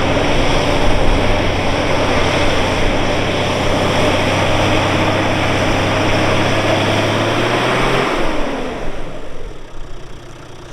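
Toyota Land Cruiser Troop Carrier's engine running hard at steady revs while driving through soft sand dunes. About eight seconds in, the revs drop and the sound falls away.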